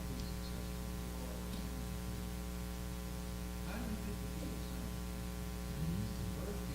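Steady electrical mains hum with a stack of overtones in the recording, with faint, indistinct voices now and then.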